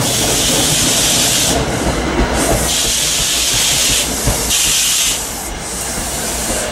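Train passing close by: a steady low rumble with a loud hiss that comes and goes in stretches of about a second.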